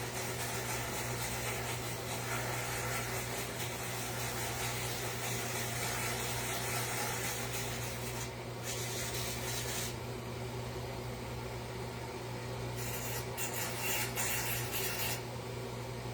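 Wood being shaped by hand, a hand tool scraping over the edge in long stretches of strokes that pause briefly about eight seconds in and again near the end, as the edge is rounded over. A steady low hum runs underneath.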